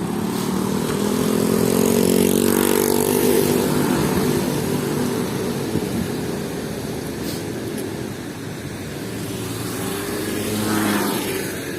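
Street traffic: a passing vehicle's engine grows louder over the first couple of seconds and fades away, and another passes near the end.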